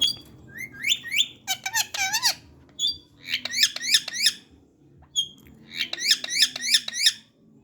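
Parrot calling with high squeaky chirps and short whistles. Three quick chattering runs of repeated chirps come about two, four and six and a half seconds in.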